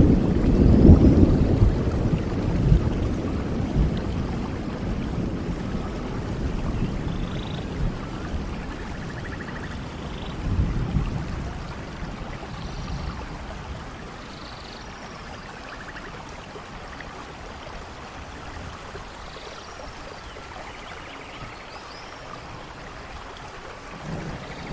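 Thunder rumbling over steady rain: loudest at the start, swelling once more about ten seconds in, then fading to rain alone, with the rumble picking up again right at the end.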